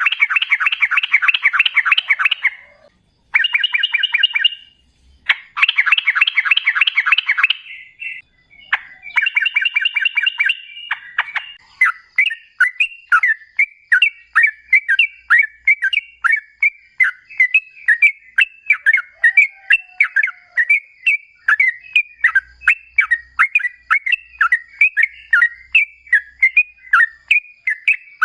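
Yellow-vented bulbul (trucukan) singing. Several short bursts of rapid bubbling chatter come first, then about 12 s in it changes to a long unbroken run of short repeated notes, about three to four a second.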